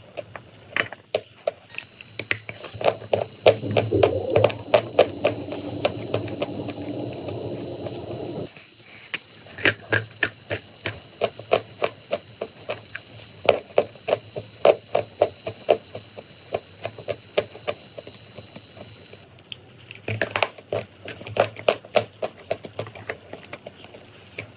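Close-miked crunching of chalk and clay, a steady run of crisp, sharp crackles. A denser, fuller crunching starts a few seconds in and cuts off suddenly about a third of the way through.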